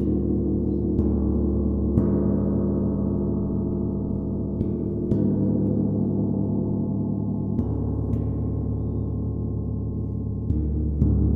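A gong struck with a soft beater about every second or two, often in quick pairs. Each strike swells a long, low ringing wash that never dies away between strokes.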